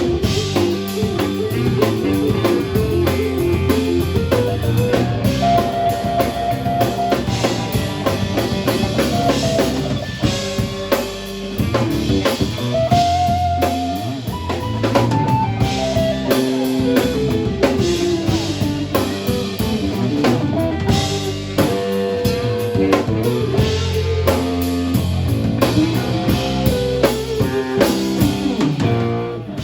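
Live rock band playing an instrumental passage: drum kit keeping a steady beat under guitar and bass, with held melodic notes on top. The music fades out near the end.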